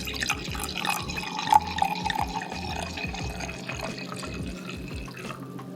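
Liquid poured into a glass, most likely wine from a bottle. The pour is steady and stops about five seconds in.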